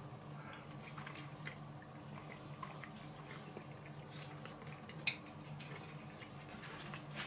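Faint chewing of soft food, potato with tzatziki, over a low steady room hum, with small mouth and fork ticks and one sharper click about five seconds in.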